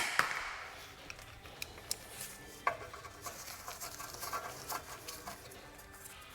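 A sharp metallic clank at the start that rings off over about a second, then scattered light metal clinks and rattles of tools and parts being handled.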